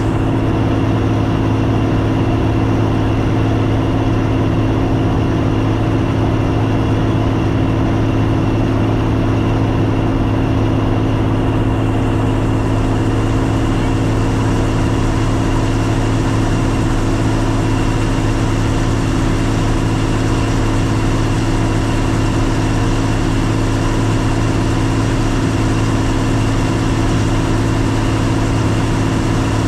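Combine harvester running steadily while cutting wheat: a constant, even engine drone with a steady machinery hum.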